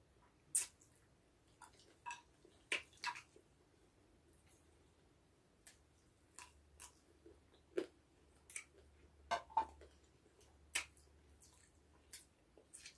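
People chewing and biting spicy chicken feet: irregular sharp clicks and crunches of eating, the loudest about half a second in and again near three, eight, nine and a half and eleven seconds.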